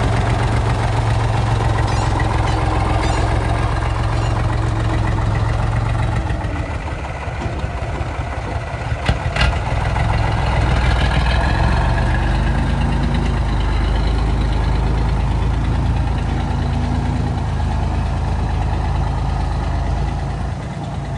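Truck engine idling steadily, its low hum changing pitch about six seconds in, with one sharp click near the middle.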